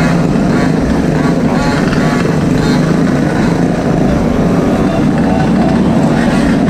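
Small gas engines of Gopeds and mini bikes running steadily under way, with a low rumble of wind on the microphone.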